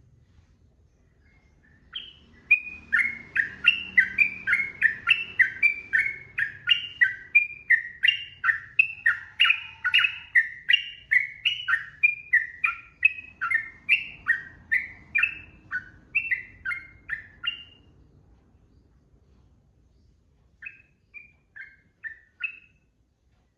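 Yellow-vented bulbul (trucukan) singing a long, fast run of repeated chattering notes, about two or three a second, for some sixteen seconds. After a short gap it gives a brief phrase of about five notes near the end.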